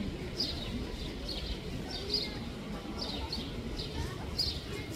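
Small birds chirping: a run of short, high chirps, roughly two a second, over a low background rumble.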